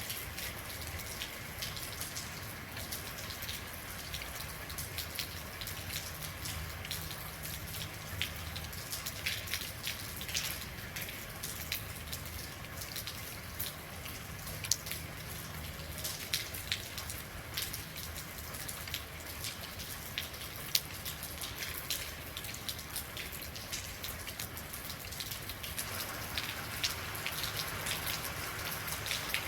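Real rain falling steadily: an even hiss with many sharp individual drops striking a surface. The hiss grows fuller a few seconds before the end.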